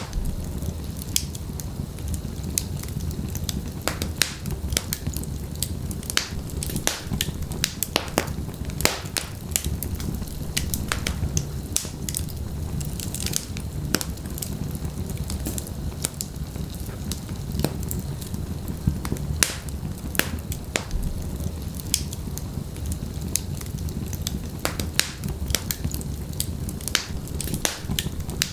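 Wood fire burning in a fireplace: logs crackling and popping at irregular moments over a steady low rumble of the flames.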